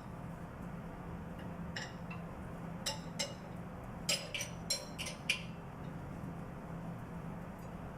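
Wrench clinking on the metal lock nuts as they are tightened on the control valve's actuator stem: scattered sharp metallic clinks, with a quick run of about five near the middle, over a steady low hum.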